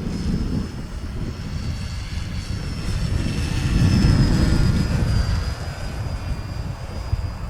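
Electric motor and propeller of a radio-controlled FMS Focke-Wulf Fw 190 model in flight: a steady high whine that grows louder about four seconds in as the plane passes closer, then eases slightly lower in pitch. Wind buffets the microphone throughout.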